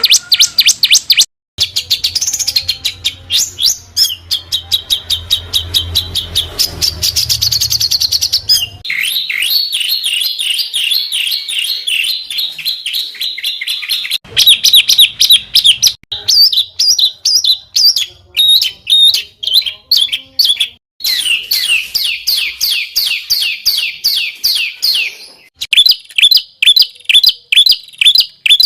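Songbird song: fast runs of sharp, rapidly repeated chirps and trills, in several passages that break off abruptly and start again.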